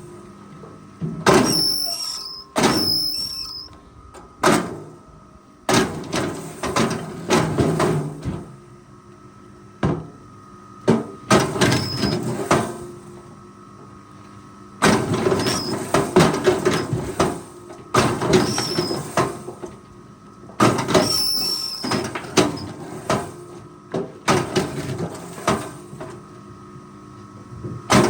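Repeated bursts of heavy scraping and knocking from logging work, several with a brief high squeal, as timber and metal parts grind against each other.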